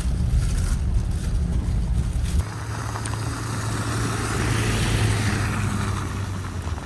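A truck driving, with a steady low road rumble. About two and a half seconds in, a hiss of tyres through standing water swells up, then fades near the end.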